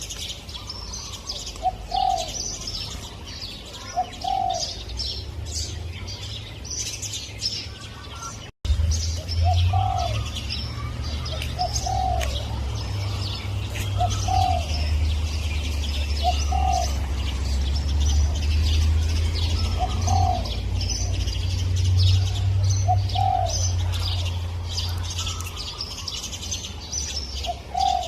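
Spotted dove cooing: a short low note repeated about every two seconds, over many small birds chirping. A brief dropout comes about eight and a half seconds in, after which a low rumble runs under the birds.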